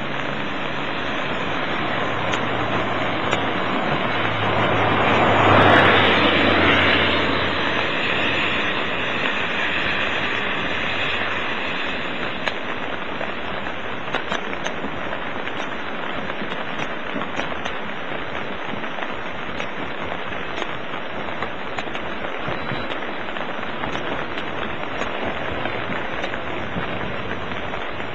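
Steady hiss of rain with scattered drop ticks. A vehicle passes about five to seven seconds in, its low hum rising and then fading.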